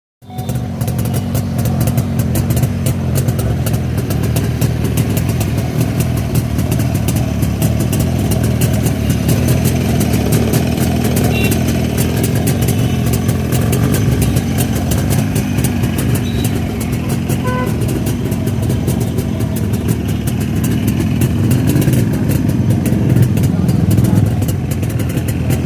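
A freshly restored 1966 Jawa two-stroke motorcycle engine idling steadily, with a crisp, rapid-firing exhaust note.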